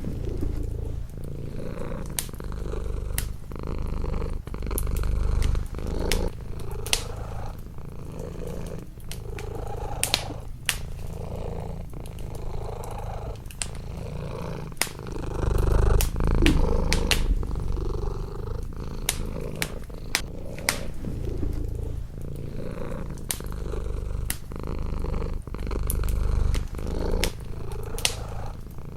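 Domestic cat purring close up, the purr rising and falling with each breath about every two seconds. Wood fire in a fireplace crackling throughout, with scattered sharp pops.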